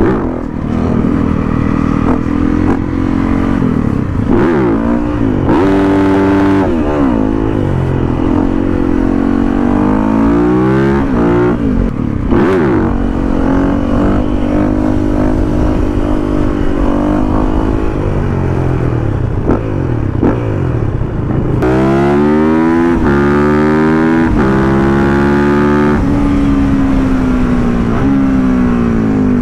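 Yamaha WR450F single-cylinder four-stroke engine revving over and over, its pitch rising and falling repeatedly and held high for stretches of several seconds, as when a wheelie is coasted on the rev limiter. It is louder from about two-thirds of the way in.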